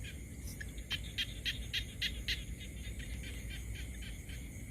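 A small animal calling at night: a regular series of short, high clicking chirps, about three to four a second, over a low steady background rumble.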